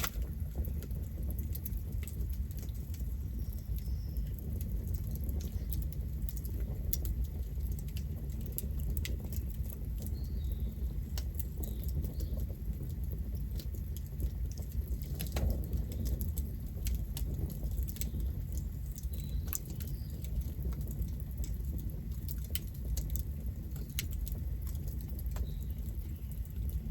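Campfire burning, with frequent irregular crackles and sharp pops of the burning wood over a low, steady rumble of the flames.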